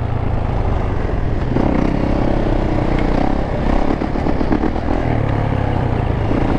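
Dirt bike engines running while the bikes are ridden, with a second engine note joining in about a second and a half in.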